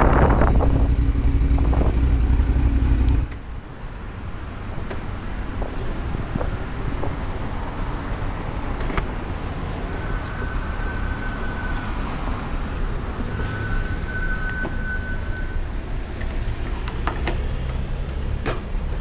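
2018 Kawasaki Z900's inline-four running steadily through a Yoshimura muffler and Delkevic headers with no dB killer, stopping abruptly about three seconds in. After that a steady low traffic hum with a few clicks and two short high beeps.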